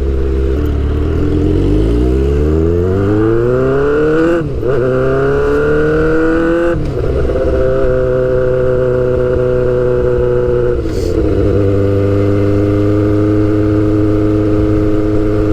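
Suzuki GSX-R600 inline-four through a straight-piped exhaust, pulling up through the revs under way with a shift about four and a half seconds in and another near seven seconds, then holding a steady pitch, with a small change just before eleven seconds.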